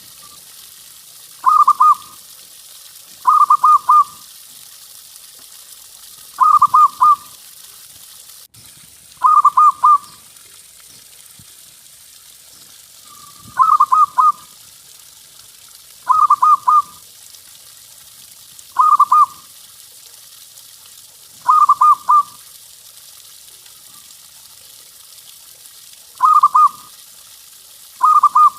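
Zebra dove (perkutut) cooing: a short phrase of rapid staccato coos repeated about every two to three seconds, roughly ten times, over a faint steady hiss.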